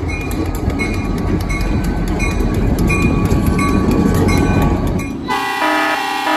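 Train rolling along with a steady low rumble and repeated wheel clicks over rail joints. About five seconds in, the locomotive's horn sounds in a loud chord, with a brief break near the end.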